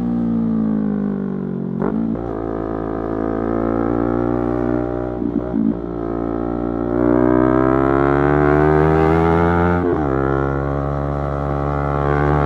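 Yamaha YZF-R3's parallel-twin engine pulling under way. The note falls at first, then climbs through the revs in stretches broken by quick gear changes about 2, 5.5 and 10 seconds in.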